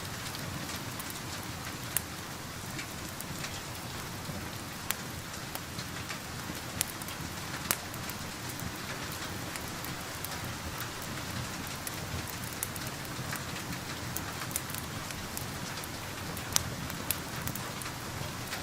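Steady rain falling, with scattered sharp crackles and pops from a wood fire at irregular moments.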